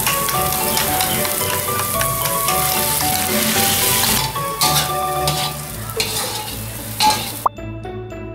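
Beaten egg poured into a hot oiled wok of diced corn, peas and ham, sizzling steadily as it hits the metal. Background music with a light melody plays under it. The sizzle cuts off suddenly about seven and a half seconds in.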